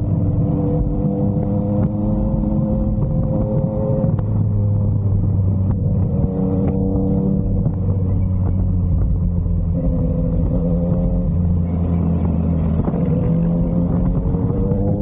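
Yamaha MT-09's three-cylinder engine running through an SC-Project aftermarket exhaust while riding. The engine note holds fairly steady with a few shifts in pitch, then starts to rise near the end.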